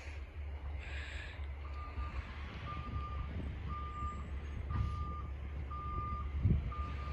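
McNeilus side-loader garbage truck's backup alarm beeping about once a second as the truck reverses, over the steady low rumble of its engine. A low thump near the end is the loudest sound.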